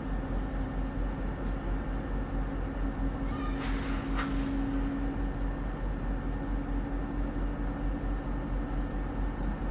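Train sound: a steady, pulsing low rumble with a constant hum over it, and a brief hiss about three and a half seconds in.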